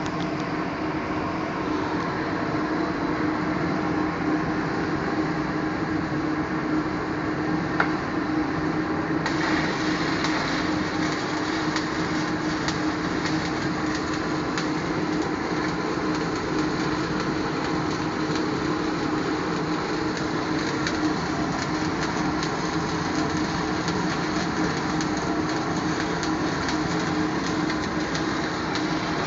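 Arc welding: a steady electrical hum, and from about nine seconds in the continuous crackle and sizzle of a welding arc.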